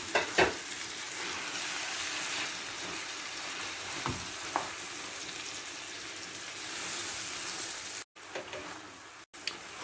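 Tomato-and-egg sauce with kale sizzling steadily in a frying pan of oil, with a few light knocks from stirring. The hiss swells briefly about seven seconds in and breaks off twice near the end.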